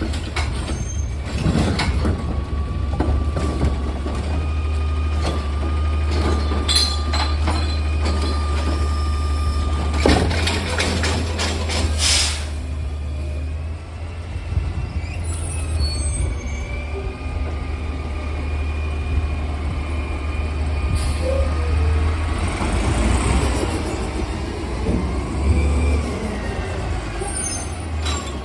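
Recycling truck's diesel engine running with a deep steady rumble, while a held whine and several metal clanks come from its arm lifting and emptying a curbside cart. A long hiss of air follows about three-quarters of the way through.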